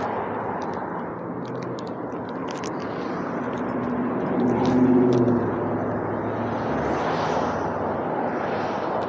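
Steady outdoor background noise, like street traffic, with a vehicle-like hum that swells about five seconds in and then fades.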